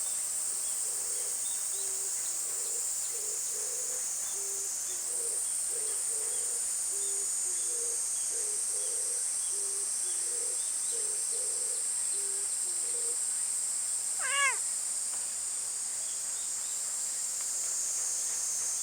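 Cicadas chirring in a steady high-pitched drone, with a cat meowing once about fourteen and a half seconds in. A faint low call repeats about once a second through the first thirteen seconds.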